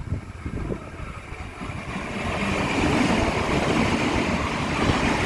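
A train approaching and passing close by, its noise building to a steady loud rush about two seconds in, with wind buffeting the microphone.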